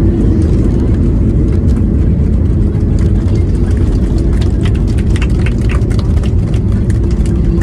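Cabin noise of a Boeing 737-800: a loud, steady rumble of its jet engines and airflow with a low hum. Scattered clicks and rattles come through about halfway.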